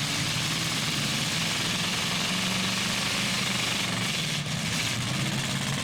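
Several demolition-derby trucks and SUVs running their engines together, a steady din with no single crash standing out.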